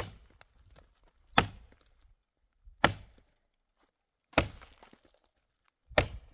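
Axe or hatchet chopping wood: five sharp strokes, about one every second and a half.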